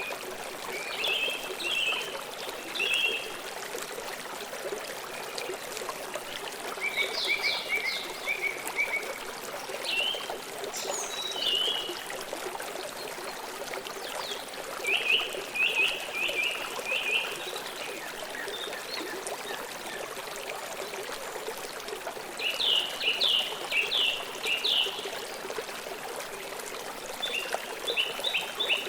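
Steady rush of a flowing stream, with birds chirping over it in short quick runs of repeated notes every few seconds.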